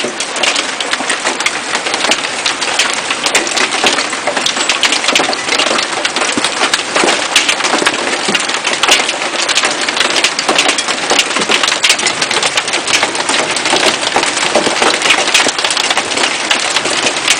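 Hailstones and heavy rain pelting down, a dense, steady clatter of many sharp little impacts over a rushing hiss.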